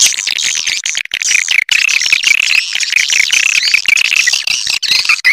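Recorded swiftlet call: many edible-nest swiftlets twittering in fast, overlapping high chirps, a lure sound played to draw swiftlets into a nesting house.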